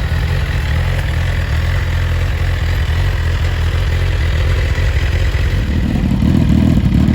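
Suzuki GSX-R 1000's inline-four engine idling steadily through its exhaust, getting louder and fuller about six seconds in.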